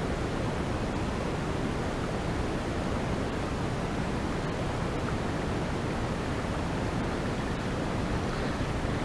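Steady wind noise on the microphone: an even rushing hiss, strongest in the low end, with no distinct events.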